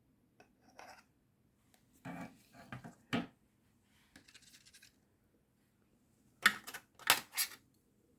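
Scratching and rustling as moss is handled and worked into a small plastic terrarium container, with three sharp clicks close together about two-thirds of the way in.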